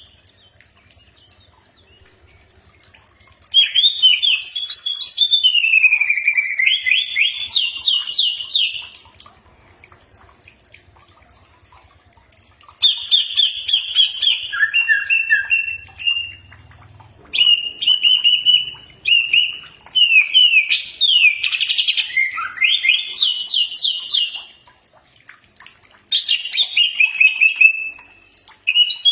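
Cucak ijo (leafbird) singing in four phrases of fast, high chirps, whistles and trills, each a few seconds long, with short pauses between them.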